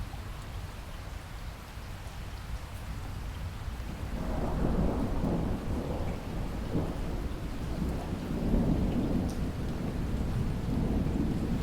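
Steady rain falling with a long roll of thunder that builds about four seconds in and keeps rumbling.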